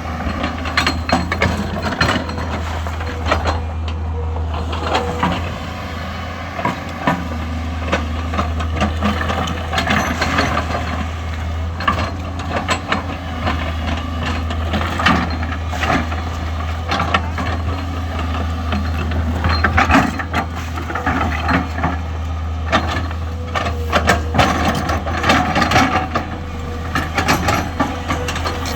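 A JCB 5CX backhoe loader's diesel engine runs steadily under load while digging and loading mud, with frequent sharp clanks and knocks from the bucket and arm.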